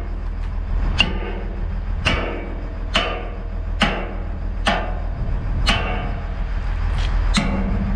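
Hammer blows on a steel pin of an excavator's boom hydraulic cylinder, about one strike a second, each ringing briefly, as the pin is driven out. The excavator's diesel engine runs steadily underneath.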